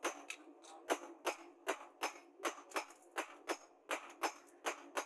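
Hammer striking steel in a steady rhythm, about two to three ringing blows a second.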